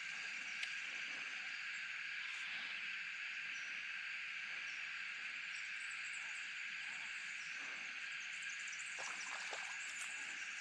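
Steady, unbroken drone of an insect chorus.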